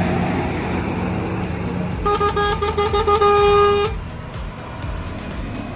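A vehicle horn sounds for about two seconds, a few short toots running into a held blast that cuts off sharply. A vehicle engine drones low underneath.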